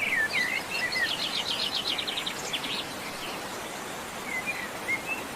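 Songbirds chirping, with a fast trill of about ten notes a second starting about a second in and a few more short chirps near the end, over a steady background hiss.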